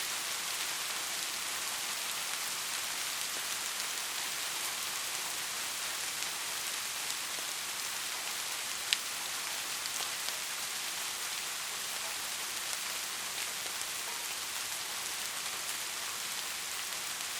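Steady rain falling: an even, hissing patter with scattered individual drop hits, one sharper tap about halfway through.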